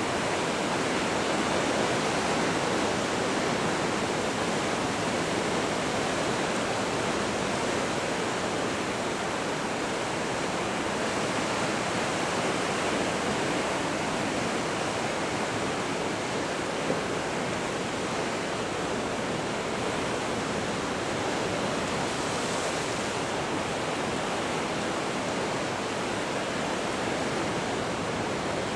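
Pacific Ocean surf breaking, heard as a steady, even wash of noise with no distinct swells.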